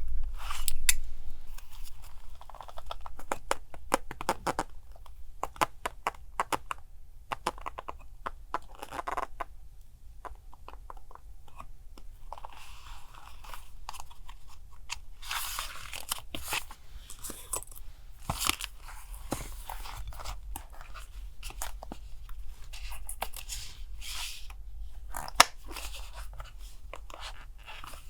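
Paper and stickers being handled for journal collage: irregular crinkling, rustling and tearing with small taps and sharp clicks.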